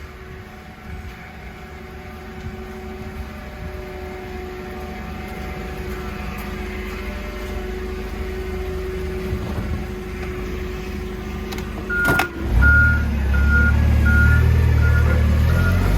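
Work vehicle's engine running steadily, then about twelve seconds in a clunk as it gets louder and a reversing alarm starts beeping in short repeated pulses.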